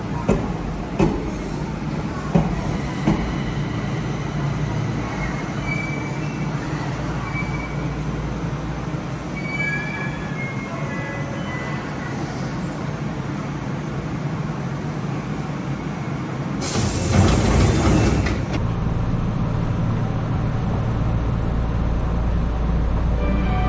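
Enshu Railway electric commuter train standing at an elevated station platform, its equipment humming steadily, with a few sharp clicks in the first few seconds. About 17 seconds in, a loud rush of noise lasts about two seconds, after which a steadier low hum sets in.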